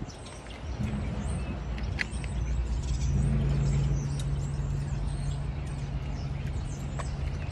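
An engine running steadily at idle, a low even hum with a rumble under it that sets in about a second in. Birds chirp faintly above it.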